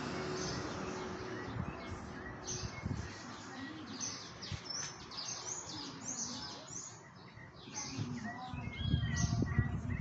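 Several small birds chirping and twittering, with many short high calls and some gliding whistles that grow busier in the second half. A low rumble on the microphone comes in near the end.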